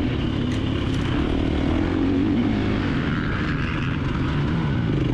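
KTM 350 XC-F's single-cylinder four-stroke engine running under the rider on a trail, its note rising and falling with the throttle.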